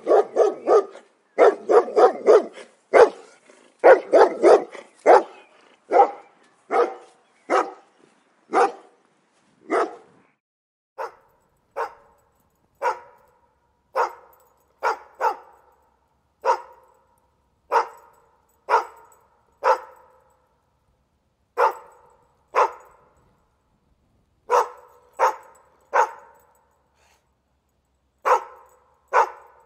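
Dog barking: a rapid run of barks in the first five seconds or so, then single barks spaced about a second apart.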